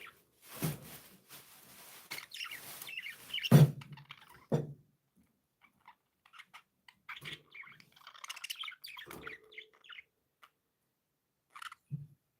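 Budgerigars chirping and chattering in bursts, with a few short thumps among them, the loudest about three and a half seconds in.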